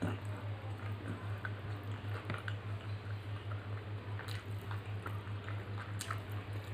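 Close-up eating sounds: mouth-closed chewing and smacking, with wet squishing of rice and dal being mixed by hand on a steel plate and a few sharp clicks. A steady low hum pulsing several times a second runs underneath.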